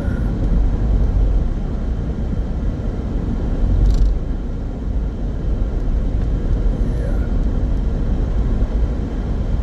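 Steady low road and engine rumble heard from inside a small car while it drives. A single short click comes about four seconds in.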